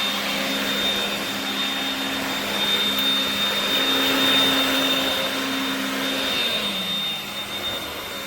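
Two cordless stick vacuum cleaners running together with a steady whine. About six and a half seconds in, one motor's pitch sinks and it winds down, its battery run out, while the other keeps running.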